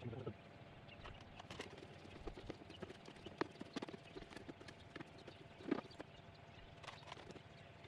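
Faint, irregular clicks and scrapes of a hand tool working on metal parts, a few strokes louder than the rest, as old sealer is cleaned off a Jeep's mating surface.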